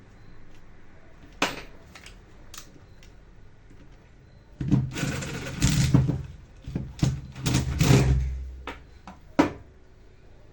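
Handling noise at a repair bench: a couple of sharp clicks, then about four seconds of irregular clattering and scraping, and one more sharp click near the end.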